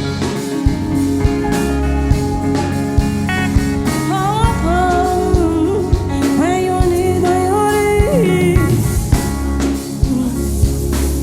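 Live band music between sung lines: a drum kit keeping a steady beat over bass and guitar, with a melodic lead line sliding in pitch from about four seconds in until near the end.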